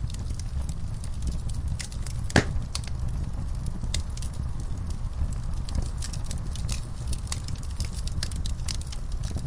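Wood fire crackling, with frequent small sharp snaps over a low steady rumble and one louder pop about two and a half seconds in.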